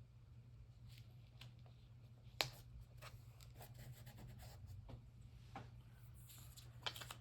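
Faint rustling of paper and light taps and clicks from hands handling paper cut-outs, with one sharper tap about two and a half seconds in, over a steady low hum.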